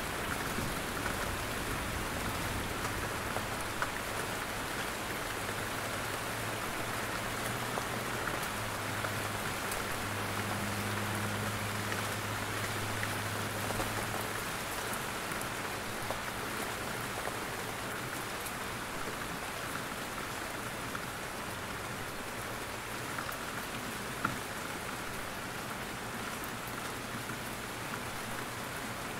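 Steady rain falling in a forest, with scattered louder drips from the trees. A low rumble sits under it for the first half and fades out about halfway through.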